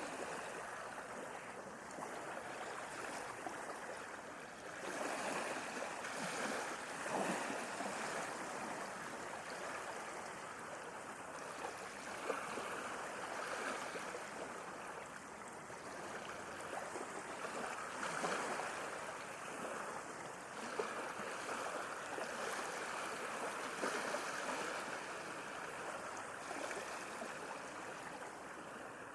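Sea waves washing ashore: a continuous rush of surf that swells and eases every few seconds.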